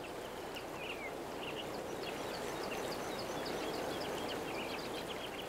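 Small birds chirping: many short, high calls, some sliding downward, over a steady background rush.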